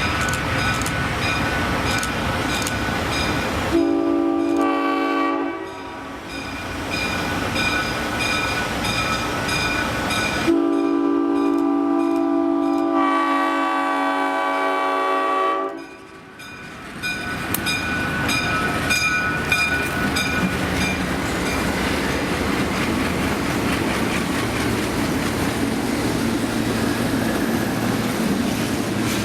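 Two Alco M636 diesel locomotives throttling up as they pass, engines running under load with wheels clattering over the rails. The lead unit's Nathan M5 air horn blows twice, a short blast about four seconds in and a longer one of about five seconds starting near ten seconds in.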